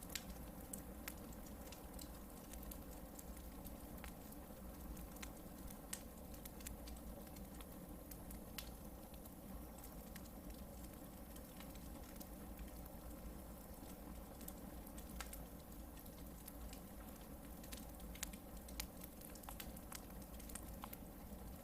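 Hardwood campfire burning with a low steady rush and irregular sharp crackles and pops scattered throughout.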